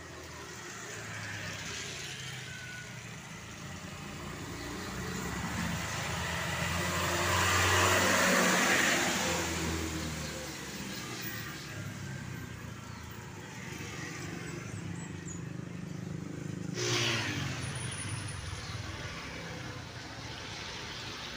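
A truck passing by, its engine and tyre noise swelling to a peak about eight seconds in and then fading away. A single sharp knock comes near the end, followed by a lower steady running sound.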